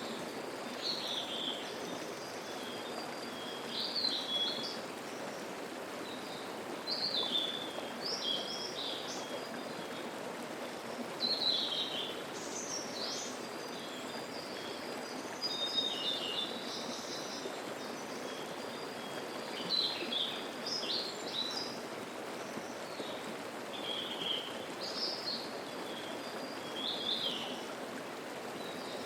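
A mountain stream babbling steadily over rocks, with a songbird singing short high phrases every few seconds above the water.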